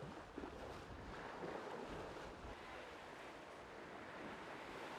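Faint, steady rush of sea water and wind around a racing sailboat at sea, with wind on the microphone.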